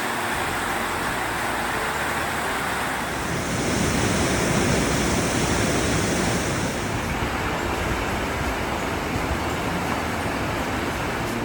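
A steady rushing noise with no clear tone or rhythm. For about three seconds near the middle a brighter hiss is added.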